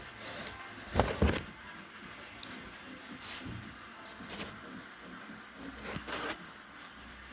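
Two quick, sharp knocks about a quarter second apart, about a second in, then a brief rustling scrape near the end.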